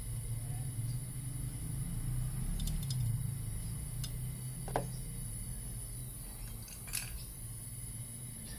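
A steady low hum with a few light clicks and taps, the loudest about two-thirds of the way through.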